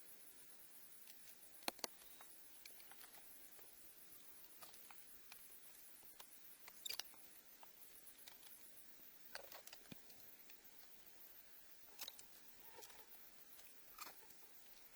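Near silence broken by a few faint, scattered clicks and taps, two close together about two seconds in.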